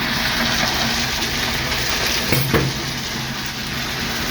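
Ballast rock pouring out of a hopper car's open doors onto the track, a steady rushing rattle that starts as the doors open, over the low hum of the idling locomotive; a couple of short knocks about halfway through.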